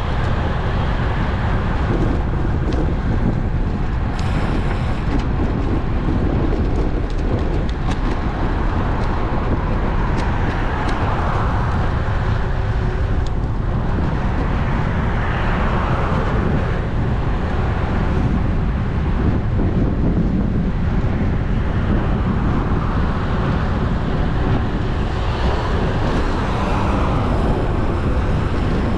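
Steady wind and road rumble from riding a road bike, picked up by the action camera's microphone, with car traffic passing now and then.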